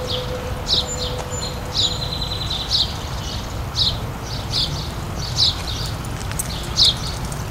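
Songbird calling repeatedly: short, high, downward-sweeping chirps about once a second, with a brief trill about two seconds in, over a steady low rumble.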